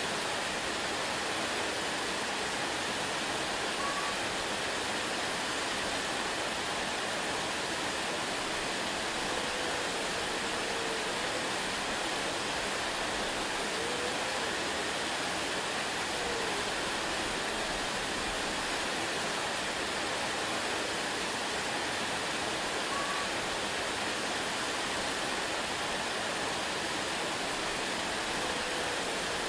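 Waterfall rushing in a steady, unchanging hiss of falling water. A few faint short chirps rise now and then.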